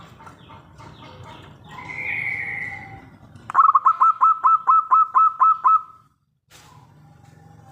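Zebra dove (perkutut) calling: a drawn-out, slightly falling call about two seconds in, then a loud, rapid run of about eleven short clipped cooing notes, each hooking upward in pitch, that stops abruptly around six seconds. A low steady rumble sits underneath.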